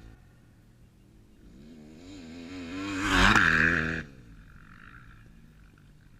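Motocross bike engine revving up and down and growing louder as it approaches, peaking about three seconds in, then cutting off abruptly.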